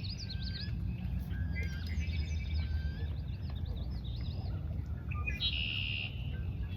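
Several birds chirping and calling in quick, overlapping short notes, with a buzzy trill a little past five seconds in, over a steady low rumble.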